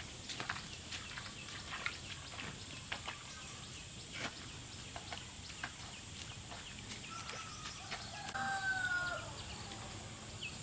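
A rooster crows once, a drawn-out call of about two seconds near the end, over scattered small clicks and rustles.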